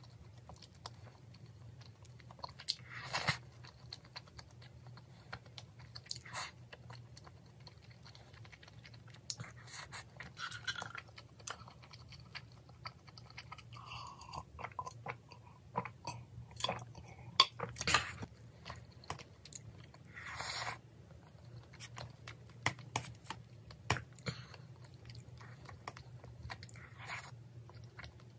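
Close-up chewing and mouth sounds of someone eating spicy boneless chicken feet and rice, with scattered sharp smacks and clicks. Drinking from a glass comes around the middle.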